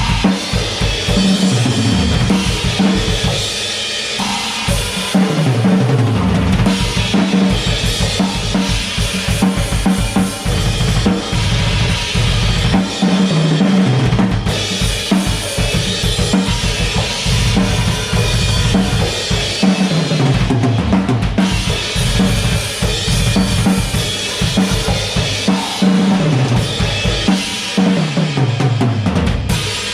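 Acoustic drum kit played fast and hard, with kick drum, snare and cymbals. About every seven or eight seconds comes a run that falls in pitch.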